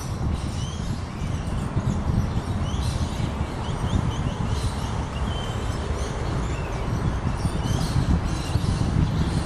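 Birds giving many short high chirps, scattered through and thickest in the middle and near the end, over a steady low rumble that is the loudest sound throughout.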